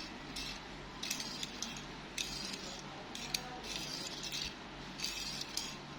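A plastic toy car being handled and turned over in the hands: light clicks, taps and scratchy rustles, coming about once a second.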